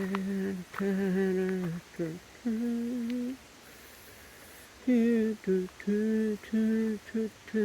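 A person humming a tune: a few long held notes, a pause of about a second and a half, then a quicker run of shorter notes.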